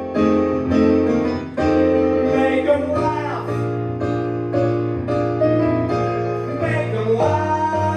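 Piano accompaniment playing an instrumental passage of a bouncy show tune, chords changing in a steady beat.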